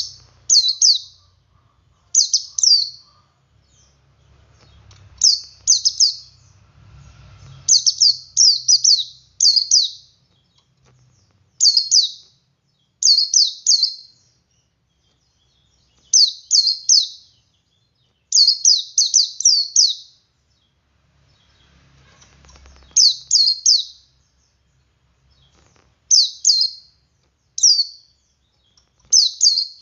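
Male white-eye (pleci) singing its ngalas song: short, high chirping phrases of two to four quick notes, repeated every second or two with brief gaps between.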